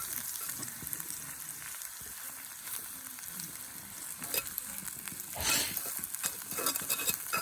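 Food sizzling and crackling in a cast-iron skillet over a campfire, a steady hiss with fine spitting and a louder surge about five and a half seconds in.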